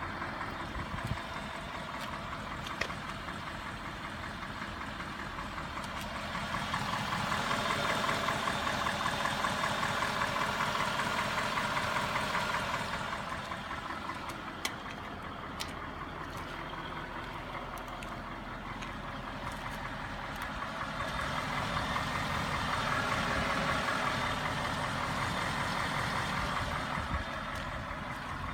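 Cadillac STS Northstar V8 engine running with a fast ticking noise, which the owner thinks might be a lifter; the tick is only there once the engine is warm. The sound swells louder twice for several seconds each time.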